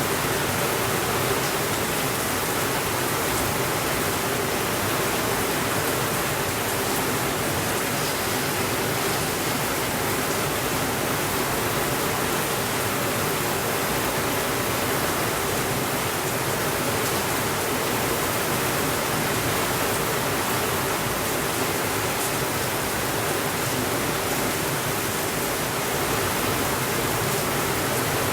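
Heavy rain falling steadily on a window, an even hiss with no let-up, with a few faint ticks now and then.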